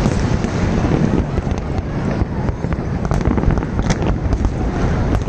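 Fireworks going off in a dense, continuous barrage of crackles and bangs over a heavy low rumble.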